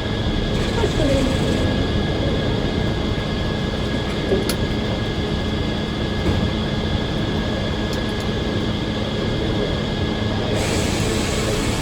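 Circular sawmill running steadily, a continuous machine noise with a steady hum, heard from inside the operator's cab.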